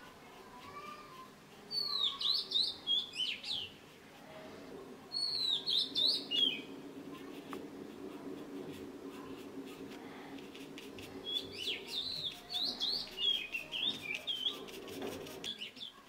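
A bird chirping in three bouts of rapid, high sweeping notes: about two seconds in, about five seconds in, and again for several seconds from about eleven seconds in.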